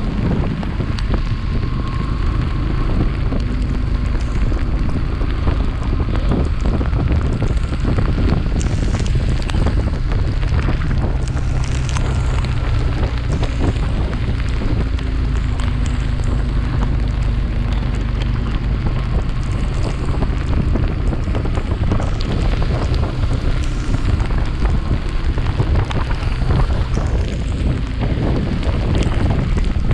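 Wind rushing over a chest-mounted action camera's microphone on a moving Yamaha FZS V3 motorcycle, with the bike's single-cylinder engine running steadily underneath.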